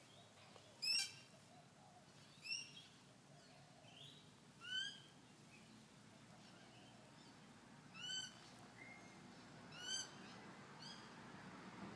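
A bird calling in the background: about six short, faint, rising notes spaced a second or two apart.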